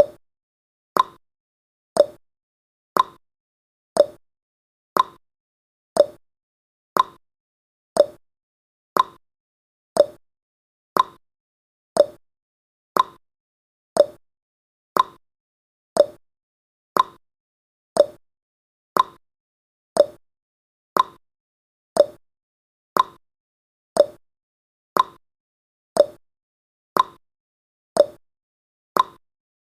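Countdown timer's ticking sound effect: one short, sharp tick every second, like a clock.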